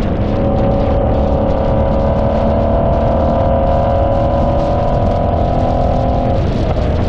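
Car engine running at steady revs, a droning note that shifts slightly about six seconds in, over a heavy low rumble.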